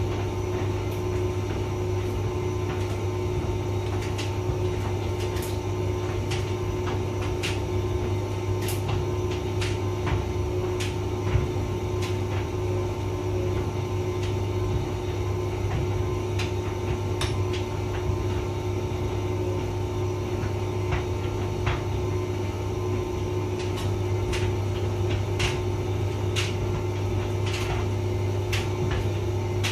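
Hotpoint vented tumble dryer running steadily: a constant low motor and drum hum with a fixed whine above it, and irregular light clicks scattered through it.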